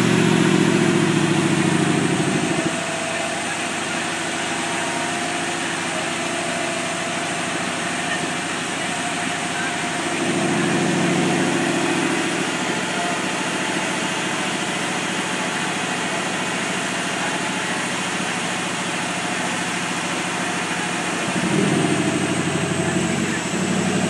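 Shelby GT500's supercharged V8 idling. Its exhaust note grows deeper and louder for a couple of seconds three times: at the start, about ten seconds in, and near the end.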